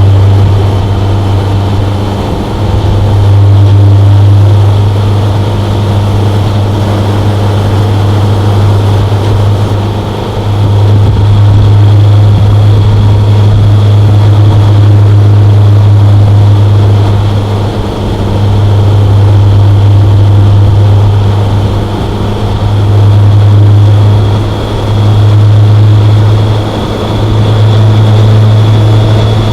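BMW K1100LT motorcycle's inline-four engine running steadily while cruising. Its level dips briefly every few seconds as the throttle eases and comes back.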